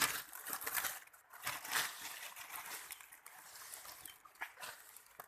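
Rustling and crackling of dry vegetation with scattered clicks, loudest in the first second and thinning out later, with a couple of faint short chirps near the end.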